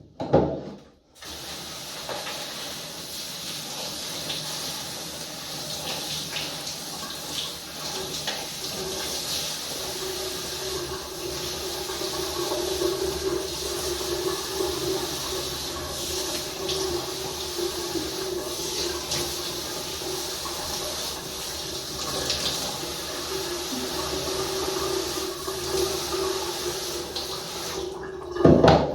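Water running steadily from a tap, with a faint steady tone in the flow. A sharp knock comes just before it, the water starts about a second in, and it cuts off near the end.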